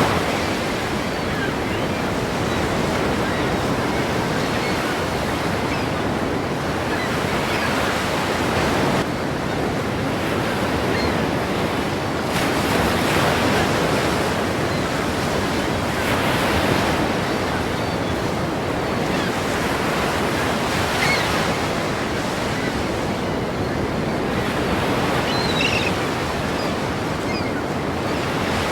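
Ocean surf: waves breaking in a continuous wash of water noise that swells every few seconds as each wave crashes.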